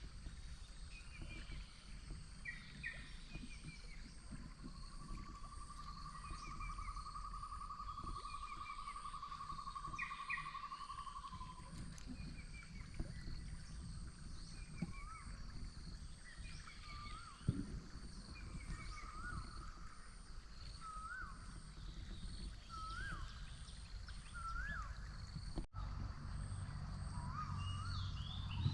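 Forest ambience of birds calling: short chirping notes, then from about halfway a rising whistled note repeated roughly every second and a half. A steady high insect hum, an even trill lasting about six seconds early on, and a low steady rush run underneath.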